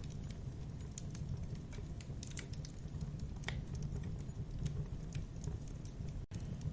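Wood campfire crackling: scattered small pops and snaps over a steady low rumble of the flames, with one louder pop about halfway through. The sound cuts out for an instant near the end.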